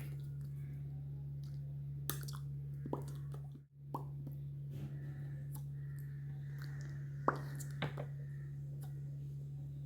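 Steady low electrical hum, with scattered soft clicks and taps and a brief dropout about three and a half seconds in.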